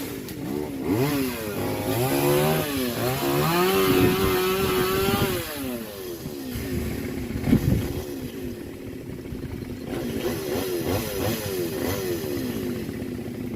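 Chainsaw engine revving up and down in bursts, with a sharp knock about seven and a half seconds in.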